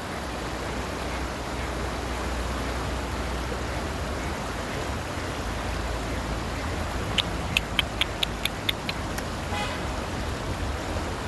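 Steady rushing background noise, with a quick run of about nine short, sharp bird calls a little past halfway, then one short nasal call.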